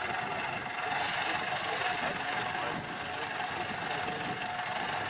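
IFA W50 truck engine running steadily under a constant hum, with two short bursts of hiss about a second and two seconds in.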